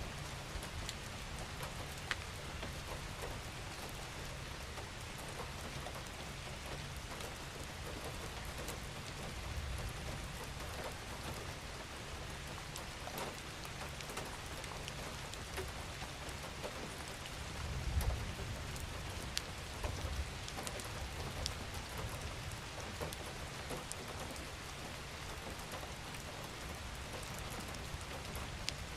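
Steady rain falling, with scattered sharp drops hitting a surface close by and a low rumble underneath that swells briefly a little past halfway.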